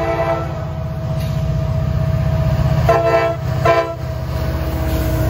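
Diesel freight locomotives passing close by with a steady low engine rumble. The lead locomotive's multi-chime air horn is sounding at the start and gives two short blasts about three seconds in.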